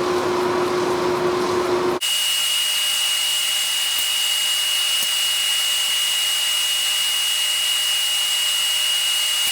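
Forge running steadily: an even hiss with a constant high whistle, heating the knife blade for its quench. It starts at a cut about two seconds in, after a lower steady hum.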